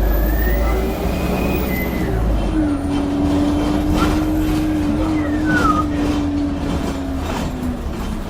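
Bus engine running under way, with a high-pitched turbo whistle rising and falling over a steady low drone and rumble.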